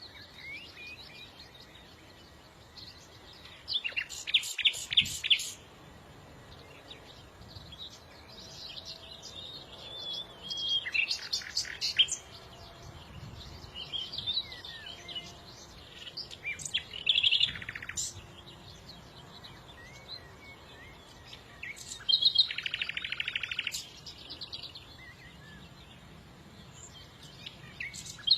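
Small songbirds singing and chirping, with a soft continuous twitter broken every few seconds by loud bursts of fast, high trilling.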